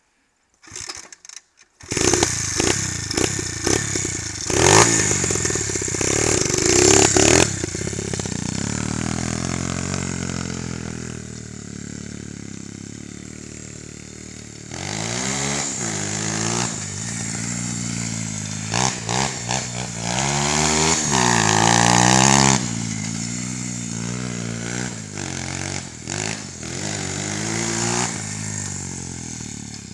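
Coolster Speedmax 125cc four-stroke pit bike engine being ridden hard, coming in about two seconds in. Its pitch climbs and drops with the throttle, it fades for a few seconds in the middle, then it returns louder with sharp revs.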